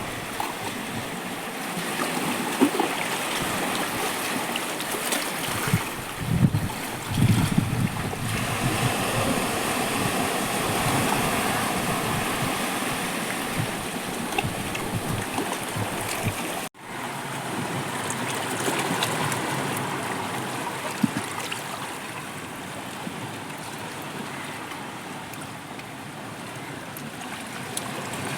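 Sea surf washing steadily on the shore, with low gusts of wind buffeting the microphone about six to eight seconds in. The sound drops out for an instant about seventeen seconds in.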